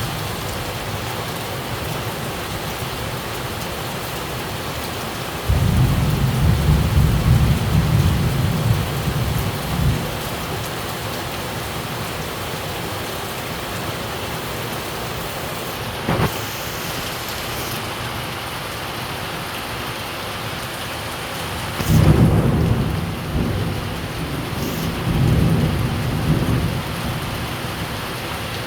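Steady heavy rain during a tropical thunderstorm, with a long low rumble of thunder about five seconds in and another about two-thirds of the way through. A brief sharp crack comes midway between them.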